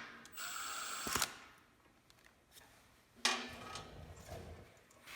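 Hand tools working on metal parts: a rasping mechanical noise lasting about a second that ends in a click, then a sharper clatter about three seconds in that fades away.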